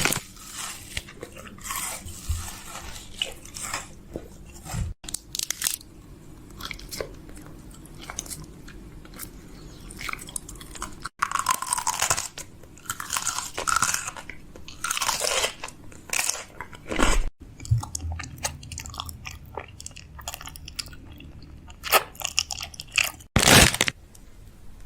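Close-up crunching and chewing: irregular crisp crackles and bites, broken by several sudden cuts.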